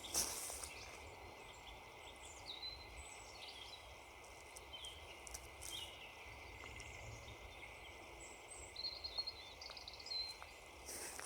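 Small birds calling in a quiet winter woodland: scattered short chirps and whistled slurs, with a brief rapid trill about nine seconds in. A single crunching footstep on frozen ground at the very start.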